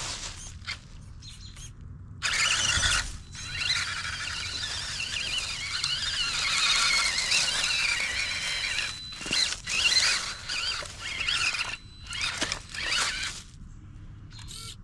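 RC truck's electric motor and geared drivetrain whining at a high pitch in high gear, the pitch wavering as the throttle is worked. There is one long run of several seconds followed by two shorter bursts.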